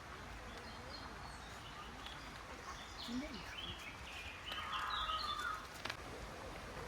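Birds chirping and calling over steady outdoor background noise, busiest around the middle of the stretch.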